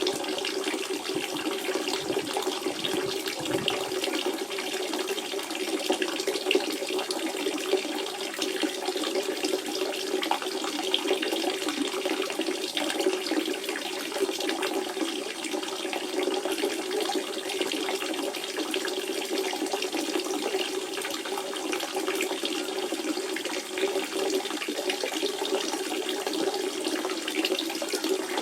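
Natural spring water running and splashing steadily, a continuous trickling flow.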